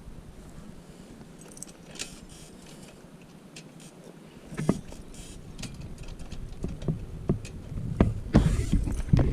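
Scattered light clicks, knocks and rattles, sparse at first and busier in the second half, with a few heavier knocks near the end.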